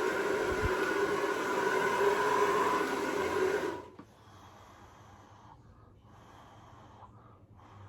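Hair dryer running, a steady rush of air with a motor whine, switched off suddenly about four seconds in. Then a few soft, breathy puffs of air follow.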